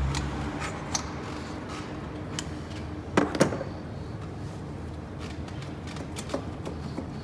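Scattered light clicks and clinks of tools and engine parts being handled, with a louder double clink about three seconds in.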